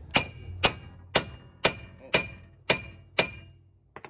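Hammer striking steel, seven sharp blows about two a second, each with a short metallic ring, knocking the outer tie rod end's stud loose so it pops out of the steering knuckle.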